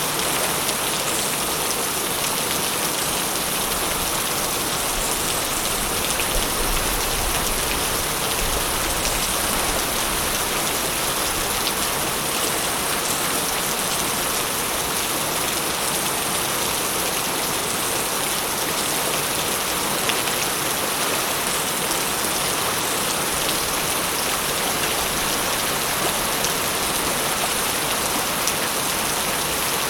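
Steady rain falling, a dense even hiss of many drops with scattered louder individual drops.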